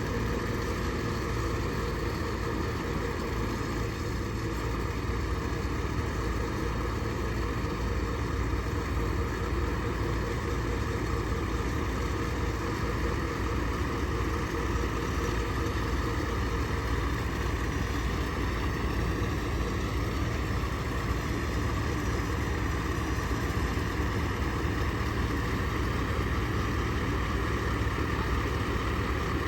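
Scania S650 XT heavy-haul tractor's V8 diesel engine running steadily at low revs.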